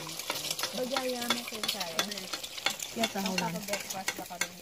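Food sizzling and crackling as it fries, a dense steady crackle, with people's voices underneath.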